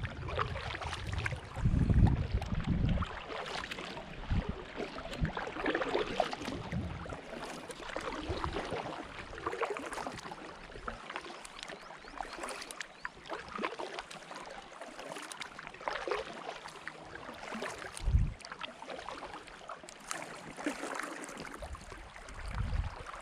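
Paddles splashing into the water in repeated strokes, about one every two seconds, as a boat is paddled along. Gusts of wind buffet the microphone now and then.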